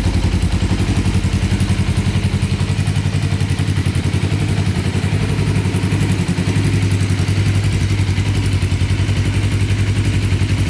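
Suzuki GW250 Inazuma's 248 cc parallel-twin engine idling steadily, with an even fast pulse from the exhaust.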